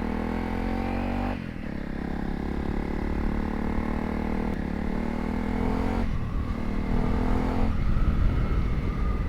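Dirt bike engine running, its pitch climbing slowly in stretches as the bike accelerates, with abrupt changes in the sound about a second and a half in and again around six and nearly eight seconds in.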